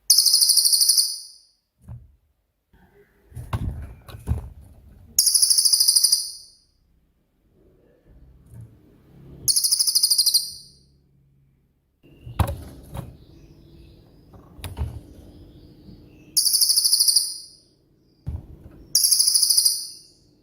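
A cililin singing: five short, very high, rapid trilled bursts, each about a second long and coming every few seconds, the sharp 'tembakan' shots that keepers use to train other songbirds. A few knocks and a low hum sound between the bursts.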